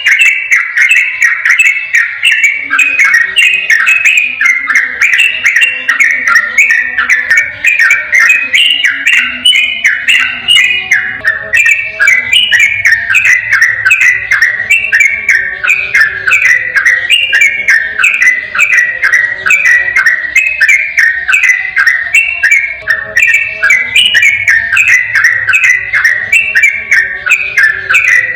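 Yellow-vented bulbul (trucukan) singing a long, rapid 'ropel' song: loud whistled, chattering phrases repeated several times a second without a break.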